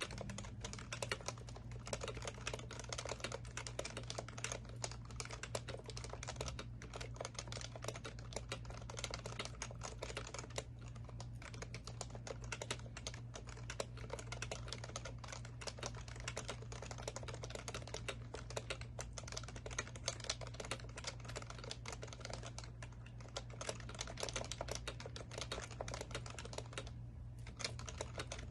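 Continuous typing on an HHKB Professional Classic keyboard with Topre capacitive switches, a fast, dense run of keystrokes with a couple of brief pauses, about a third of the way in and again near the end. A steady low hum runs underneath.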